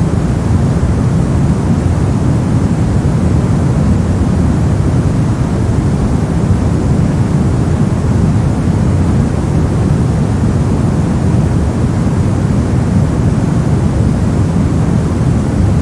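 Steady white-noise track: an even, unbroken rush with no changes, heavier in the low end than the high, so it sounds deep rather than hissy.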